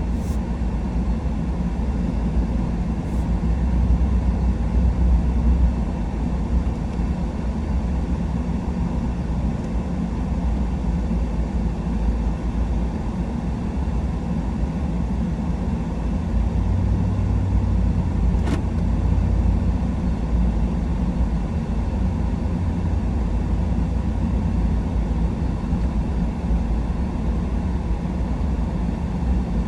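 Pickup truck driving in four-wheel drive, heard from inside the cab: a steady low rumble of engine and tyres.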